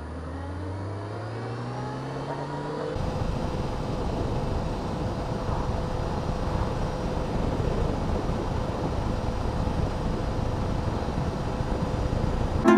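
Honda CBR600F4i inline-four motorcycle engine accelerating, its pitch rising for the first three seconds. Then a steady rush of wind noise on the microphone from riding at speed, with the engine underneath it.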